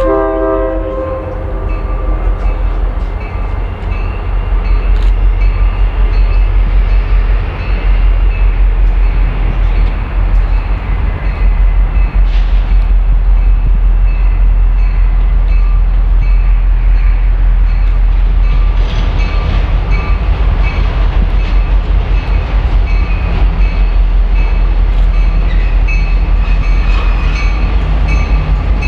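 A train running close by with a heavy, steady low rumble. A multi-note horn blast dies away in the first couple of seconds, and a repeated high dinging carries on over the rumble.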